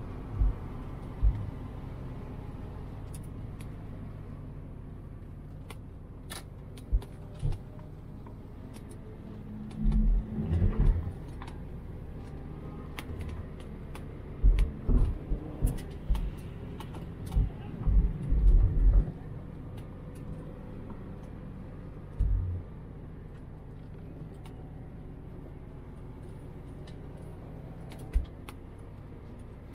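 Low, steady running of a car's engine at low revs, with a scattering of short, dull thumps and knocks on the microphone, bunched about a third of the way in and again around the middle.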